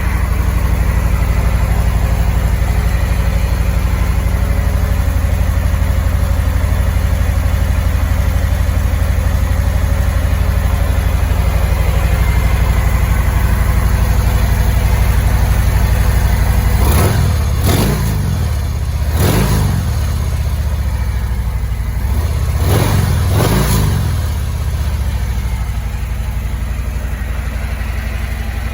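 Harley-Davidson Fat Bob S Milwaukee-Eight 114 V-twin with Stage 1 tune, stock headers and Screamin Eagle slip-on mufflers, running at a steady idle shortly after a cold start. In the second half it is revved in several quick throttle blips, each rising and falling back, then returns to idle.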